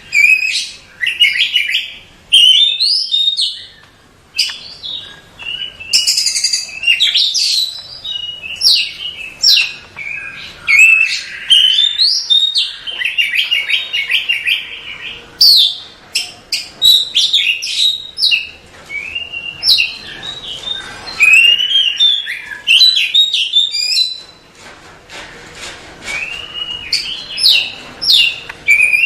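Oriental magpie-robin (kacer) singing a dense, varied song of loud whistled notes, rising and falling slurs and rapid chatter, with only short pauses.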